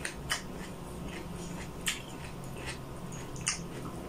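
Close-miked mouth sounds of a person chewing food: a few sharp, wet smacks and clicks spaced unevenly over a steady low hum.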